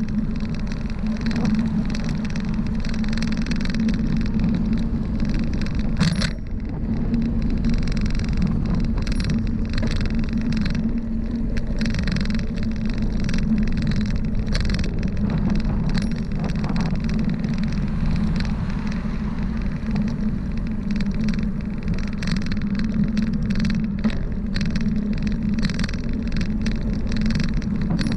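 Steady rushing road noise of a bicycle ride along a highway, a constant low hum under a noisy rush, with scattered clicks and a sharper knock about six seconds in.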